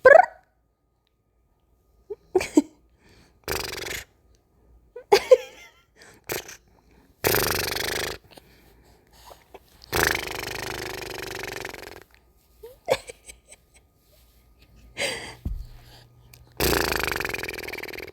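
A series of silly mouth noises made to amuse a baby: breathy blowing and sputtering sounds, each from half a second to about two seconds long, with short voice sounds in between.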